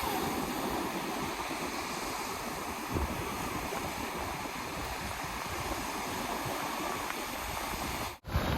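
Steady rushing noise, cut off abruptly near the end.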